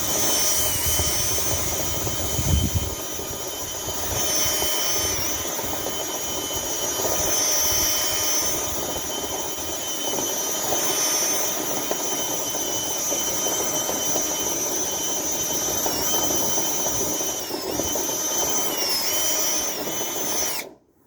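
Motor of dryer vent cleaning equipment running with a steady high-pitched whine, its pitch dipping briefly several times as it takes load, then cutting off suddenly near the end.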